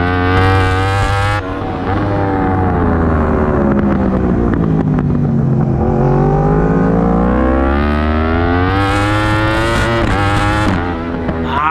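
Yamaha R1 crossplane inline-four racing engine at full race pace: revs climb to a shift about a second in, fall steadily for several seconds as the bike slows for a corner, then climb again hard through the gears before another shift near the end.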